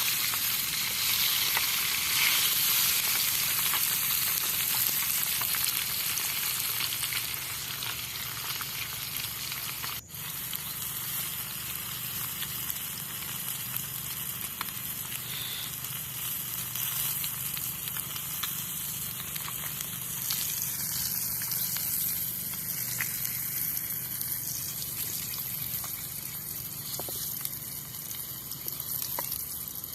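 Food frying in a pan, a steady sizzle, with a brief drop-out about ten seconds in.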